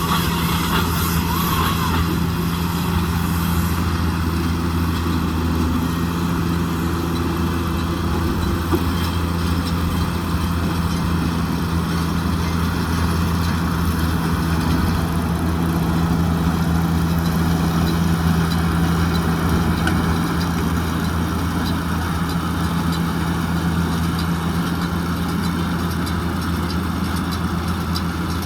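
JCB Fastrac 2170 tractor engine running steadily at constant speed, a continuous low hum with no change in pitch.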